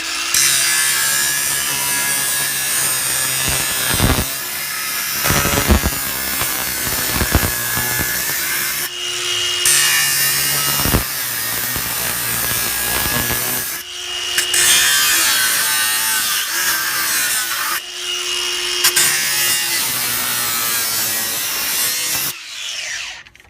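A power tool cutting through a Worcester Bosch boiler heat exchanger, running loud and steady for most of the time. It pauses briefly three times as the cut is worked, and stops near the end.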